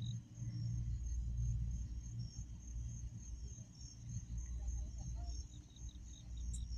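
A chorus of crickets trilling in steady, evenly pulsed chirps, over a low steady rumble.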